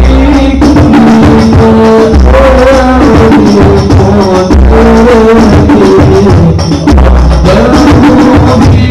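Sholawat music from a hadroh ensemble: a sung melody over frame drums and shakers, with a deep low beat about every two and a quarter seconds.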